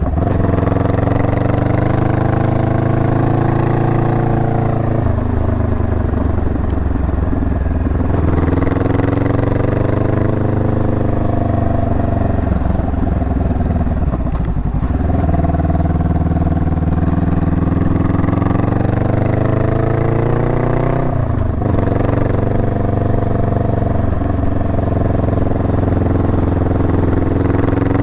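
Honda Rebel 500's parallel-twin engine running under way, its note rising and falling several times as the throttle opens and closes. There is a brief sudden dip in the engine note about three quarters of the way through.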